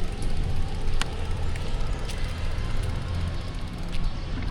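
City street traffic: a steady low rumble of engines and tyres, with a few sharp clicks about one, two and four seconds in.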